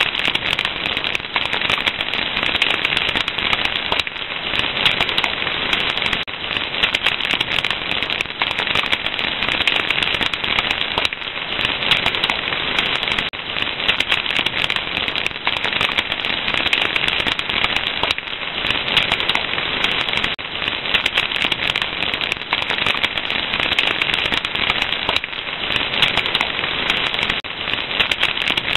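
Wood fire crackling, a dense, steady run of small pops and snaps over a continuous hiss.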